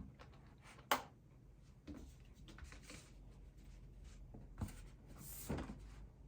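Faint handling of sticker sheets, with light rustling, a sharp click about a second in and a couple of softer knocks near the end.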